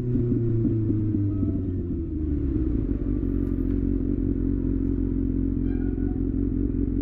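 Kawasaki ZX-6R's inline-four engine coming down from a rev, its pitch falling over the first two seconds or so, then idling steadily.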